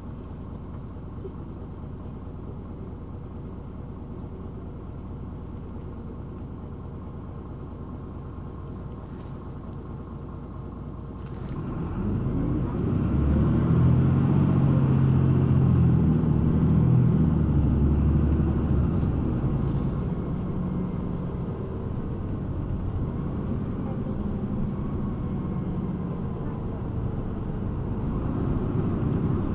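City bus engine heard from inside the cabin, idling steadily. About eleven seconds in there is a sharp click, then the engine runs up loudly as the bus pulls away and accelerates, before settling to a steadier running sound.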